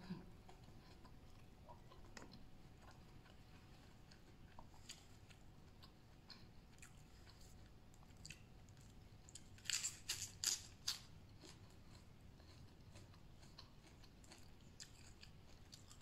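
Faint chewing and crunching of green papaya salad and raw napa cabbage leaves, with a short run of louder, crisp sounds about ten seconds in.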